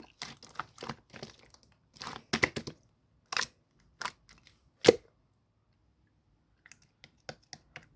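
Translucent blue slime being squished and stretched, giving crackling, popping clicks: a dense run at first, then a few louder single pops, a short pause, and faint small clicks near the end.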